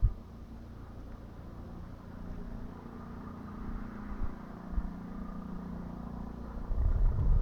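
Distant police helicopter circling, heard as a faint, steady drone. A low rumble on the microphone grows louder near the end.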